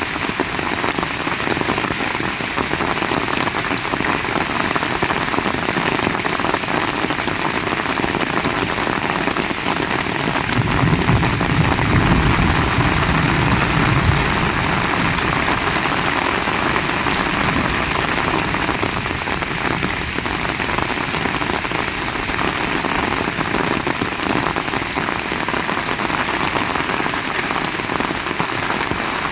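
Heavy rain falling steadily. A low rumble joins in for a few seconds about halfway through.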